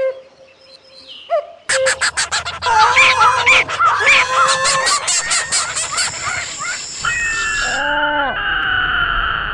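A loud burst of squawking, honking bird calls mixed with many sharp clicks starts about two seconds in. About seven seconds in it gives way to a steady high tone sliding slowly down, with a few short falling notes underneath.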